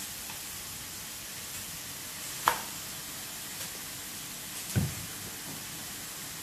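Steady sizzling hiss of tofu and egg cooking in a wok over a gas flame, with a sharp click about two and a half seconds in and a short low knock nearly five seconds in.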